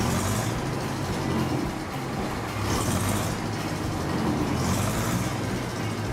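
Grey Ferguson tractor engine running steadily just after a cold start, warming up. A hissing rush rises and falls three times over the steady engine sound.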